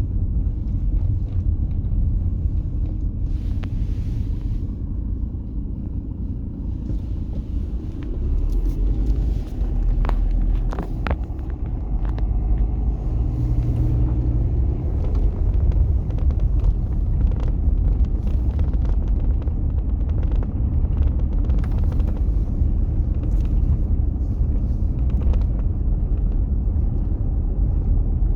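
Car driving along a road: a steady, heavy low rumble of engine and tyres, with a few short clicks about ten seconds in.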